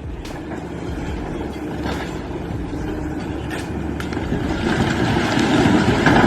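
Heavy vehicle engine running under a rough, noisy rumble that grows louder toward the end.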